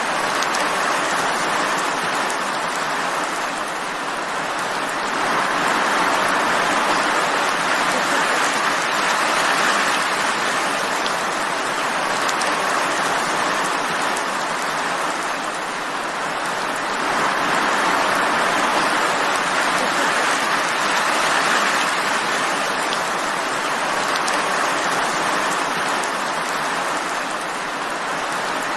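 Steady rain falling as an even hiss, growing slightly louder and easing again every ten seconds or so.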